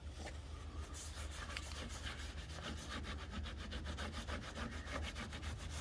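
Rapid, even back-and-forth scrubbing as a cleaner is worked into a test spot on the car to lift black gunk.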